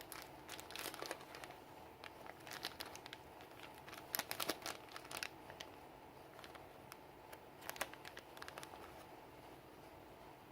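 Crinkling and rustling handling sounds, as of packaging or a wrapper being handled, in four short bursts with quieter gaps between.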